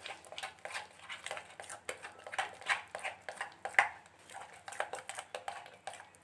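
Spoon working a thick banana batter in a bowl: irregular wet clicks and taps, several a second.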